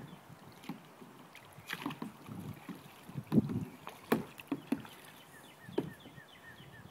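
Kayak paddle strokes: irregular splashes and knocks as the paddle dips into the water and bumps the hull, several over the stretch.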